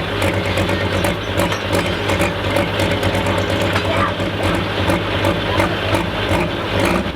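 Turbocharged diesel pulling tractor running hard at full power under load, a steady deep drone with crackling over it.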